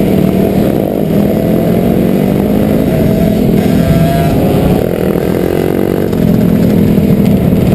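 Dirt bike engines running loud, one revving up in pitch about three seconds in and dropping back soon after.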